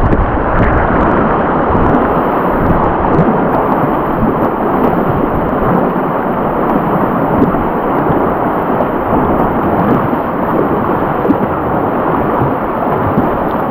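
Loud, steady rushing roar of whitewater, with wind buffeting the camera microphone.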